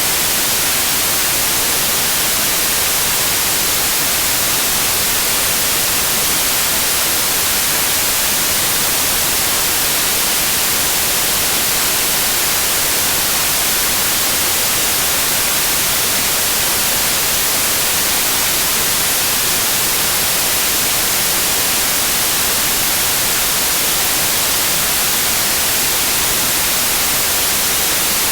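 Synthetic white noise: a steady, even hiss, strongest in the high frequencies, with no change from start to end.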